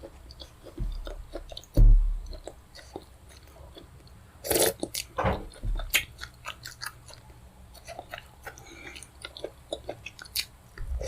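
Close-miked chewing of fufu and pepper soup, with many small wet mouth clicks and smacks and a few louder bites about halfway through. A low thump comes about two seconds in.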